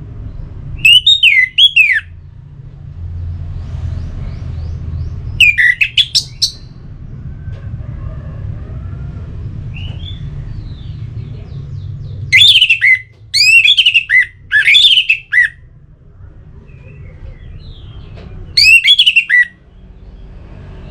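Orange-headed thrush singing in short loud phrases of quick sweeping high notes, with pauses of a few seconds between them, over a steady low hum.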